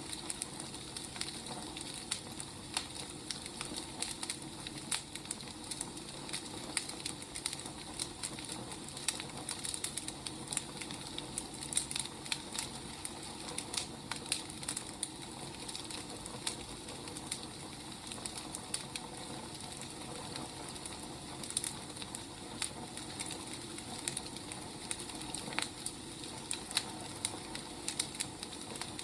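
Wood fire crackling: a steady hiss with frequent, irregular snaps and pops of burning firewood.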